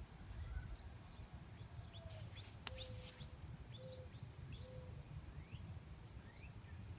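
Faint scattered bird chirps, short rising and falling notes, with a few short held tones in the middle, over a low steady rumble.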